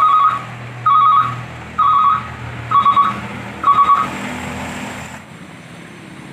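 Truck reversing alarm beeping five times, about once a second, over a low engine hum. The beeps stop about four seconds in.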